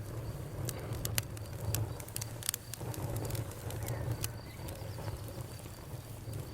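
Campfire of burning wood crackling, with irregular sharp pops and snaps, the loudest about two and a half seconds in, over a steady low rumble. Birds call faintly in the background.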